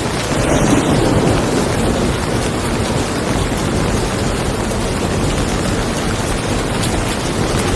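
Steady rain falling on a car, with a low rumble of thunder that swells about half a second in and fades over the next couple of seconds.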